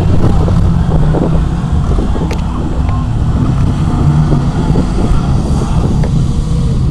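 A 4x4 truck engine running loud and steady under heavy load, its pitch stepping up about four seconds in, with wind buffeting the microphone.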